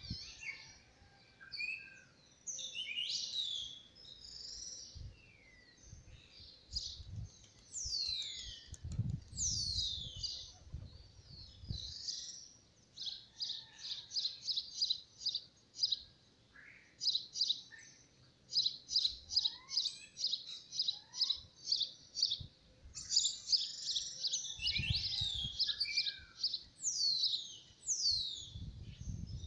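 Birds chirping and calling: a mix of high falling whistled notes and runs of quick repeated chirps, about four a second. Occasional soft low thuds sound underneath.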